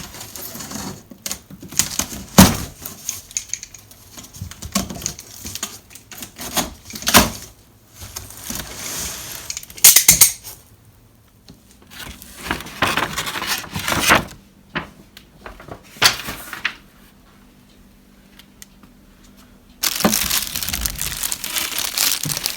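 Cardboard box and packaging being handled while unpacking: irregular rustling, crinkling and scraping with a few sharp knocks, then a steady run of crinkling near the end.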